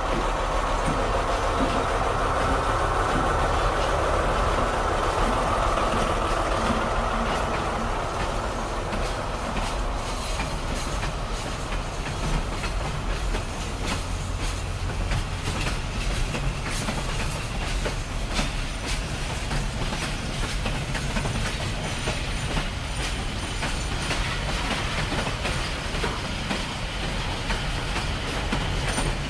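Train rolling past on the track, a steady rumble with its wheels clicking over the rail joints, the clicks coming thick and fast from about a third of the way in.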